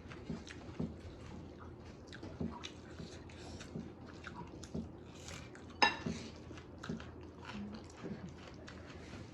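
Close-up eating sounds: a person chewing and biting food, with small irregular clicks of cutlery and dishes. A sharp ringing clink about six seconds in, like a utensil striking a plate.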